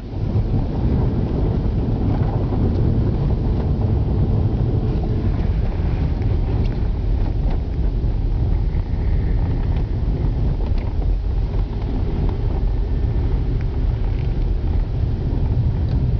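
A car driving: a steady low rumble of road and engine noise with some wind noise on the microphone.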